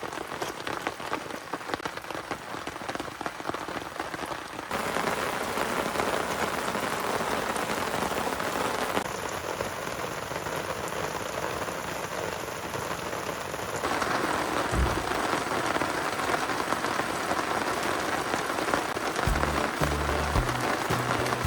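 Heavy rain falling steadily, its loudness and tone shifting abruptly a few times between shots. Near the end a low beat of background music comes in.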